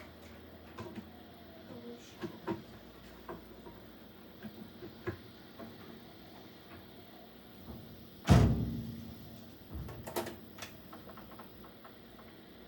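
Scattered light knocks and clicks, then one loud thump a little past the middle that rings on briefly, with a weaker knock about two seconds later.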